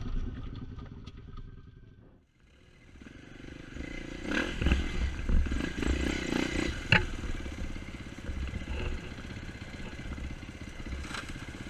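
ATV engine running, fading away about two seconds in, then engine noise again with clattering and a sharp knock about seven seconds in.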